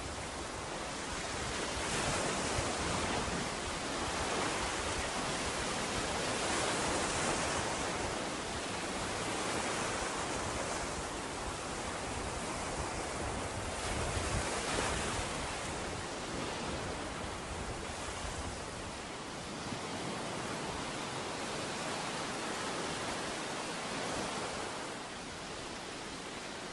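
Ocean surf washing onto a beach: a steady rush of waves that swells and eases every few seconds.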